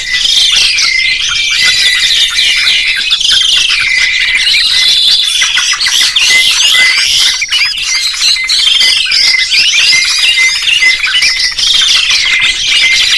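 Songbirds chirping and whistling without pause, many quick trills and swooping calls overlapping one another.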